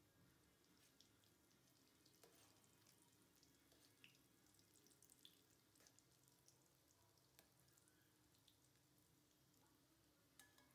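Egg pitha deep-frying in oil in a steel karahi, heard faintly: a low sizzle with scattered pops and clicks.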